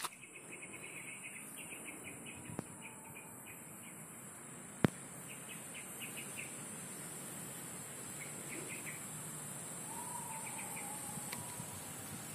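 Steady high-pitched insect drone with small birds chirping in short trills several times. A single sharp click about five seconds in.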